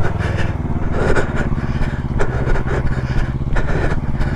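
Yamaha R3's parallel-twin engine running steadily at low revs as the bike is ridden slowly in first gear, with a few sharp ticks over it.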